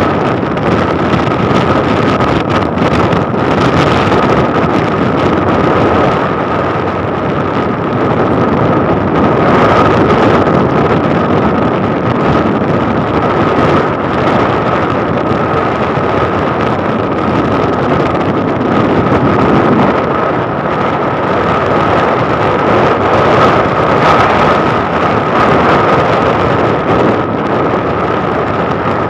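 Wind rushing over the microphone of a moving motorcycle, with the ride's road and engine noise and a steady high whine.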